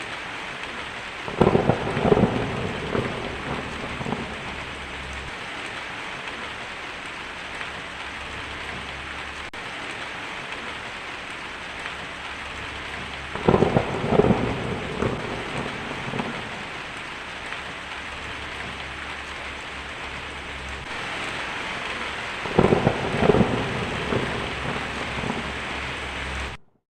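Steady heavy rain with three peals of thunder, about 2 seconds in, about 14 seconds in and about 23 seconds in, each a few sharp cracks trailing into a rumble. The rain grows slightly heavier near the end.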